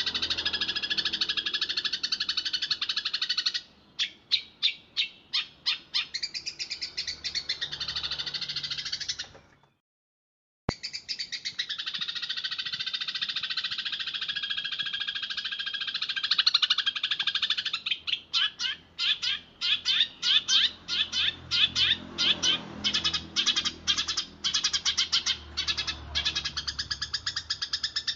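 Eurasian tree sparrows chattering in a fast, dense run of chirps, with spells of separate sharp chirps at about three to four a second. The sound drops out for about a second near the middle.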